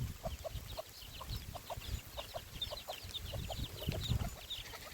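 Chickens clucking: a quick, uneven series of short calls, several a second.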